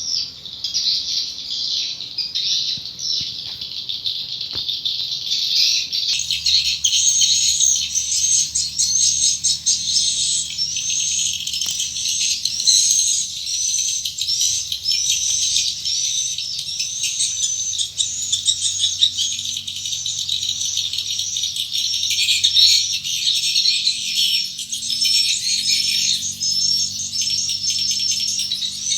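Many swiftlets chirping and twittering in a dense, continuous chatter of short, quickly repeated chirps and rattling calls.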